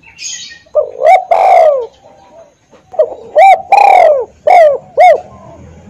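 Spotted dove cooing: two phrases about two seconds apart, each of short coos around one long drawn-out note. A brief scratchy noise comes just before the first phrase.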